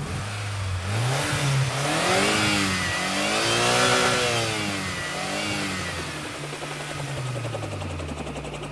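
Cartoon vehicle engine sound effect revving up and down several times, its pitch rising and falling in arches, then settling into a steady running note with a fast pulsing near the end.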